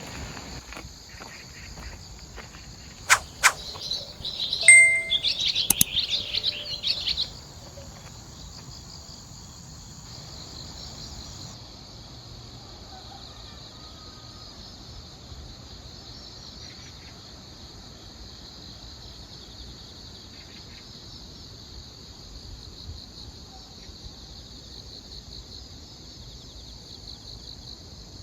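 Autumn grass insects chirring steadily in a high, pulsing chorus. For a few seconds near the start, a bird calls loudly in a rapid run of chirps, with a couple of sharp clicks before it.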